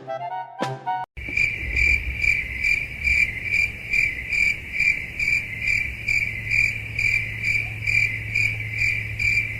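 A cricket chirping steadily, a high pulsing chirp repeating about twice a second, over a low steady hum. Music plays briefly at the very start before the sound cuts in.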